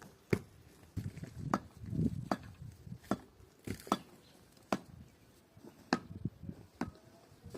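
A series of sharp knocks or chopping strikes, about one a second and irregular, some with a short ringing tail.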